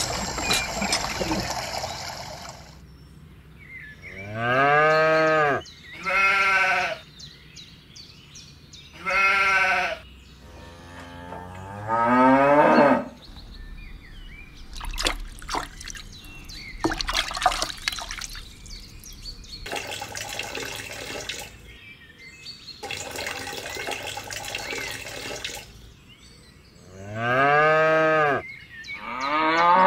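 Farm animal calls, cattle mooing and sheep bleating: five drawn-out calls, each rising then falling in pitch. Between the later calls there are stretches of a noisy, unpitched sound.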